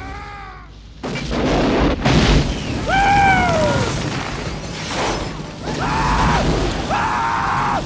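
Film sound effect of a plane exploding: a sudden loud blast about a second in, then a long deep rumble, with pitched sounds laid over it.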